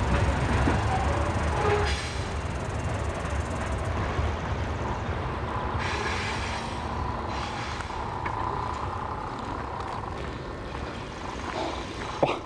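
Freight ballast train rolling away on the rails: a low rumble that slowly fades. Through the middle there is a thin, steady squeal from one squeaky wheel.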